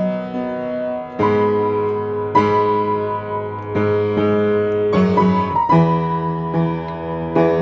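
Solo piano playing slow, sustained chords, a new chord struck about every one to one and a half seconds.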